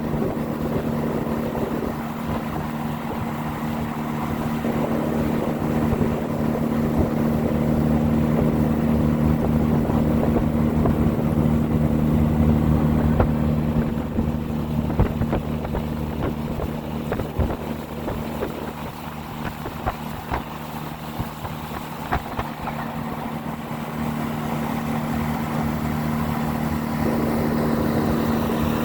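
Boat motor running steadily at an even pitch while underway, with water and wind noise on the microphone.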